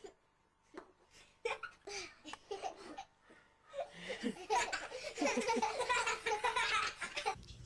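Laughter: a few short bursts, then a longer, louder stretch of laughing from about four seconds in that stops suddenly near the end.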